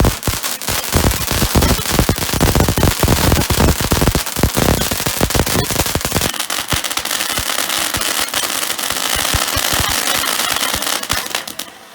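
Fireworks going off: a dense volley of bangs for about six seconds, then many smaller rapid pops that cut off suddenly near the end.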